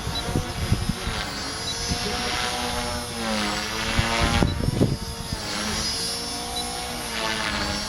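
Align T-Rex 450 Pro electric RC helicopter flying, its Scorpion HKII 2221-8 brushless motor and rotor whining and dipping and rising in pitch several times as the load changes. Low rumbling runs underneath.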